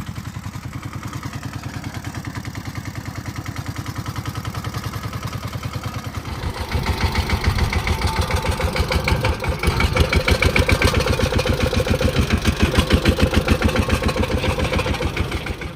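Diesel farm tractor engine running with a steady, evenly pulsed beat, becoming markedly louder about six seconds in.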